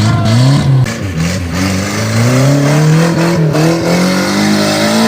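Off-road vehicle's engine revving hard through mud. Its pitch jumps up and falls back early on, then climbs steadily for the rest of the stretch as the engine is held on the throttle.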